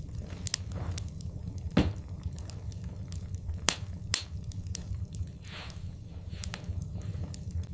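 Wood fire in a fireplace crackling: irregular sharp pops and snaps over a steady low rumble of the flames, with a few louder pops, the first about two seconds in.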